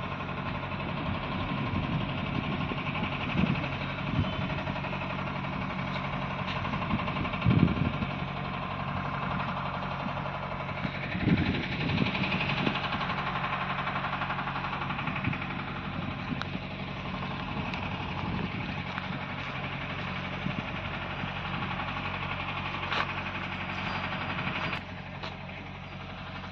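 Diesel tractor engine running steadily with a low, even throb, swelling louder a few times, as when hauling a loaded sugarcane trolley.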